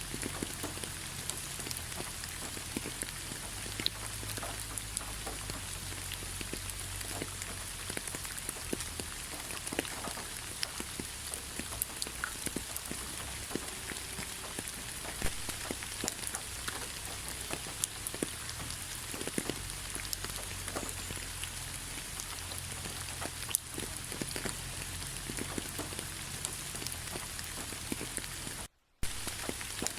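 Steady rain falling in a forest, a constant hiss with many separate drops ticking close by. The sound cuts out completely for a split second near the end.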